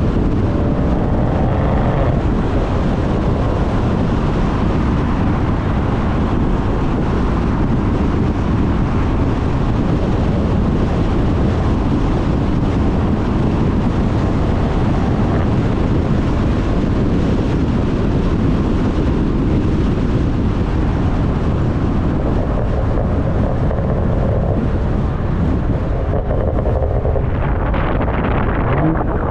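Heavy wind buffeting a microphone mounted outside the rear of a moving BMW M340i, with the exhaust of its B58 turbocharged straight-six running underneath. A faint pitched note rises out of the noise about a second in and again near the end.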